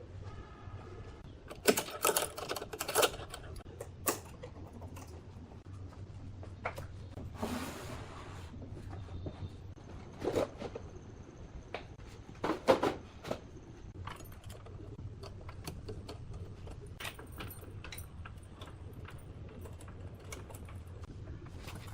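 Irregular knocks and clicks, bunched in a few louder clusters, with a short scraping burst in between, over a steady low hum: workshop handling noise.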